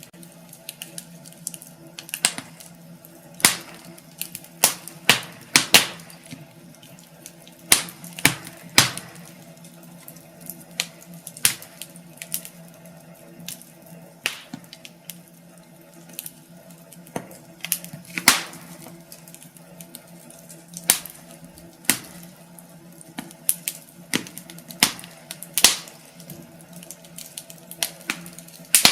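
Wood fire in a fireplace crackling, with irregular sharp pops and snaps about one or two a second over a steady low hum.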